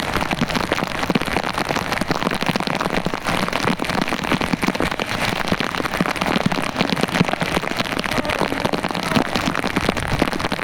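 Heavy rain falling steadily: a dense, even run of close raindrop hits.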